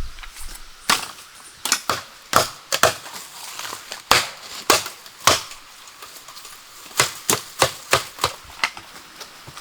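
A run of sharp, irregular cracks and knocks, about two a second, some in quick pairs.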